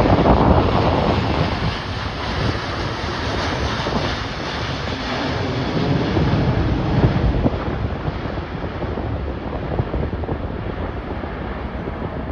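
Storm-force wind buffeting the microphone in loud, gusty rushes, strongest at the start and again about seven seconds in.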